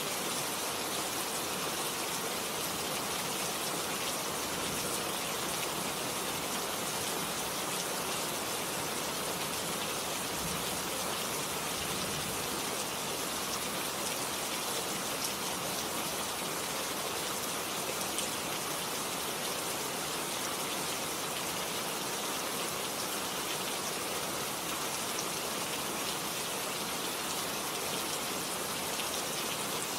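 Steady rain falling, a dense even hiss of drops with fine scattered pattering.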